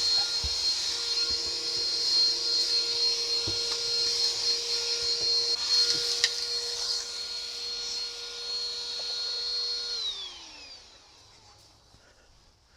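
KitchenAid cordless handheld vacuum running with a steady high whine and rushing air, then switched off about ten seconds in, its whine falling away as the motor spins down.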